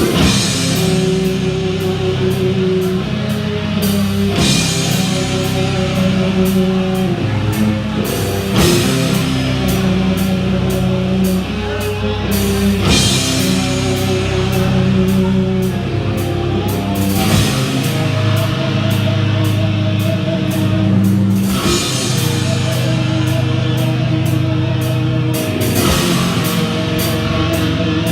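Metal band playing live: distorted electric guitars and bass riffing over fast drumming on a drum kit.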